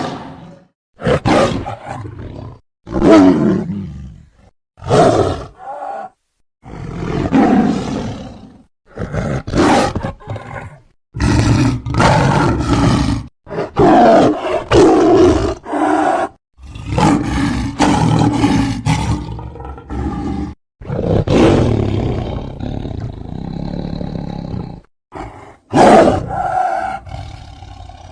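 Sabre-toothed cat (Smilodon) sound effect: a string of about a dozen big-cat roars and growls, each from under a second to a few seconds long, split by brief silent gaps, several cut off abruptly.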